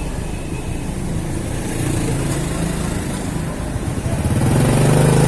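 Motorcycle engine running in city street traffic, with the hum of other vehicles around it; an engine's note swells louder about four seconds in.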